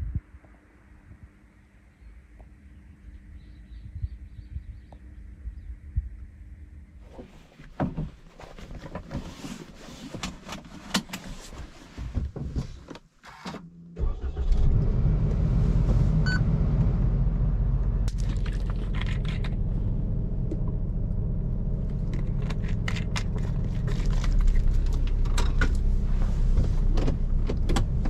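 Keys jangling and small clicks and knocks, then about halfway through a kei car's engine starts and keeps running with a steady low rumble.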